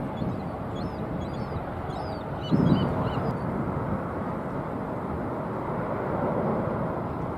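Steady engine noise from a jet airliner. Small birds chirp over it through the first three seconds or so, and a gust of wind hits the microphone about two and a half seconds in.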